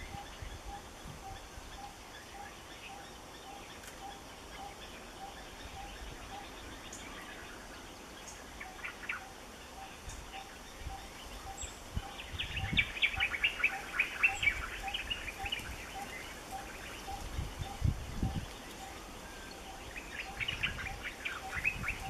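Wild birds calling: one bird repeats a short single note about twice a second throughout, and other birds break in with bursts of quick chirping about twelve seconds in and again near the end. A few low thumps sound in the middle.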